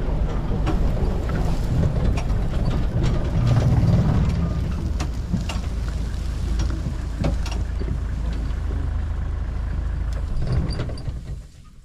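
Game-drive vehicle driving, a steady low engine and road rumble with scattered rattles and knocks. It swells about four seconds in and drops away near the end.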